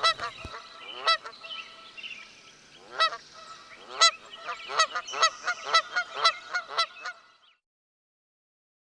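Geese honking: a flock's repeated short honks, a few scattered calls at first and then a dense run of overlapping honks that stops about seven seconds in.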